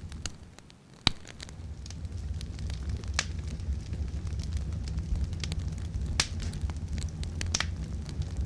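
Wood campfire burning, a steady low rumble with sharp crackles and pops from the burning logs, the loudest pop about a second in.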